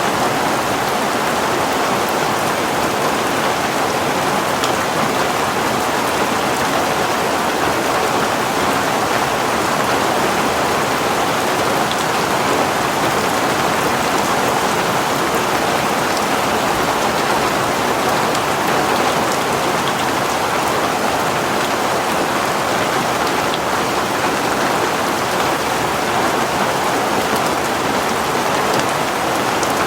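Heavy rain falling steadily, a dense even hiss of rain on surfaces with faint scattered drop ticks.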